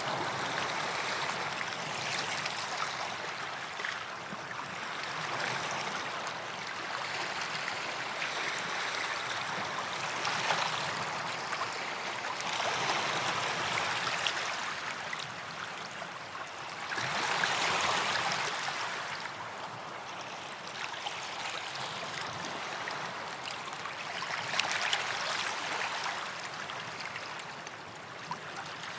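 Small waves washing onto a sandy beach, a steady hiss that swells and eases every few seconds, with one stronger wash a little past halfway.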